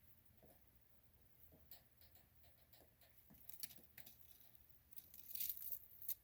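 Leopard gecko's old skin crackling and crunching as the gecko sheds it. Scattered faint crackles, a cluster a little over three seconds in, and a denser run of crackling about five seconds in that stops just before the end.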